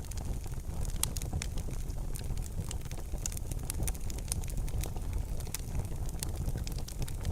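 Wood fire burning in a fireplace: frequent sharp, irregular crackles and pops over a low, steady rumble of flames.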